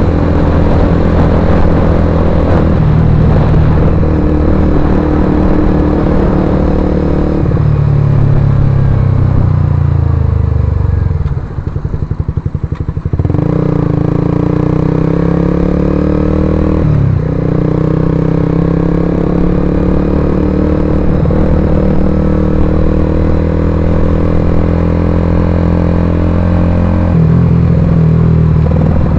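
Suzuki GSX-R150's single-cylinder four-stroke engine running through an aftermarket Akrapovic-style slip-on exhaust, heard raw. The engine note changes pitch several times; about halfway through it falls, dips briefly and then picks up again.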